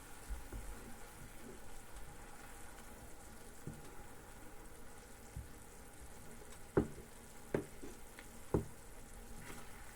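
Vegetables frying quietly in a pan on a hob, with a faint steady sizzle. About seven seconds in come three sharp knocks, less than a second apart.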